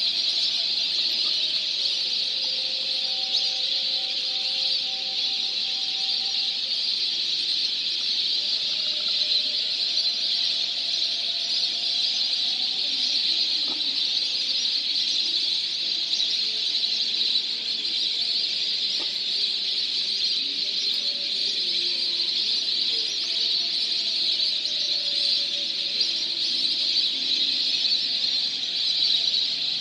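A large flock of migratory waterbirds calling together in a steady, dense chorus of high chirping and whistling, with no break.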